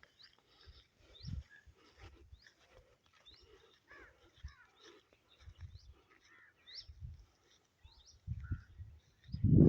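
Wild birds chirping: many short, quick rising calls throughout. Scattered low thumps run under them, the loudest near the end.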